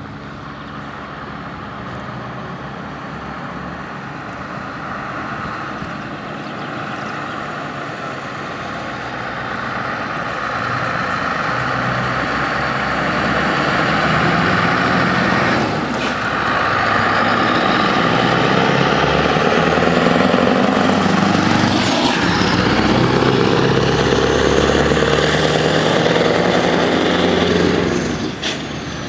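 Scania R620 truck's V8 diesel engine running loudly, growing louder over the first half as the truck comes closer, then holding loud with a brief dip near the end.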